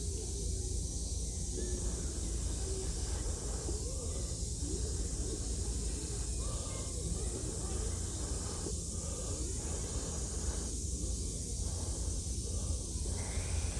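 Steady wind rumbling on the microphone over an even seaside hiss, with no distinct strikes or crackles.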